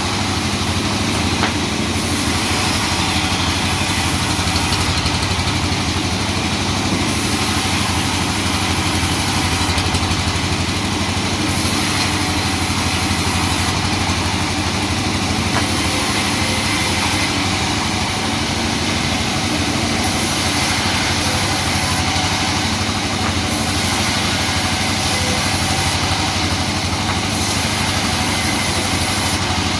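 Sawmill machinery running steadily, a constant engine-like drone with no pauses.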